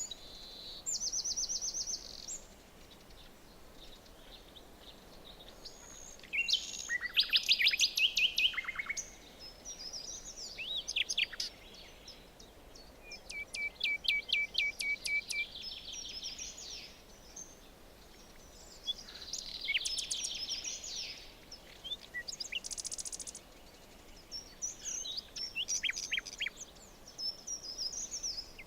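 Several songbirds singing in a forest: rapid trills, pulsed repeated notes and quick whistled sweeps in bursts every few seconds, over a faint steady background hiss.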